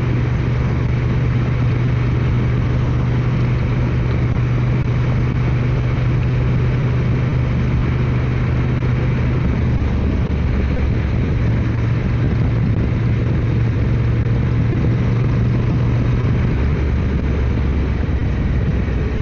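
Motorcycle engine running steadily at cruising speed under a broad rush of wind noise. The engine note changes slightly about ten seconds in and again near the end.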